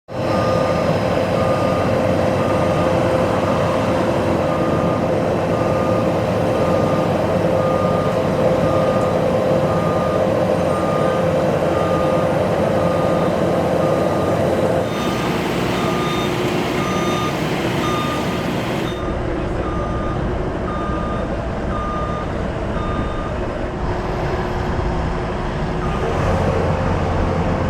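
Heavy construction machinery running steadily while a warning beeper sounds about once a second, with a few abrupt changes in the background noise.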